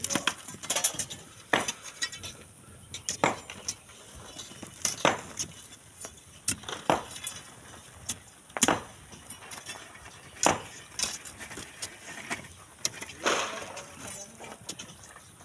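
Irregular sharp clinks and knocks of metal hand tools striking sand and stones, roughly one every second or two, with scraping in between.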